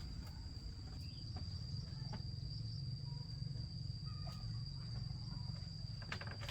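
An insect, likely a cricket, trilling steadily on one unbroken high tone, over a low rumble and a few faint clicks.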